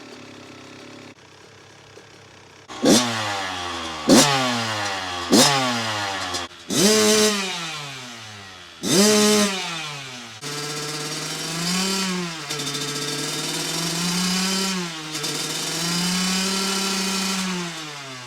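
Kawasaki KX112's two-stroke engine revving in five sharp throttle bursts, each dying away, then running steadier with the revs rising and falling as the bike is ridden.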